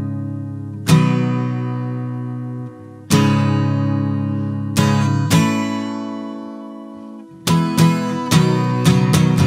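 Guitar chords, each struck once and left to ring out for a second or two. After about seven and a half seconds the strumming picks up into a quicker rhythm.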